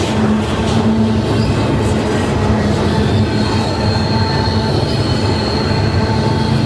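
Norfolk Southern freight train rolling past, a steady loud rumble of wheels and cars. A thin, high wheel squeal sets in about three seconds in and holds steady.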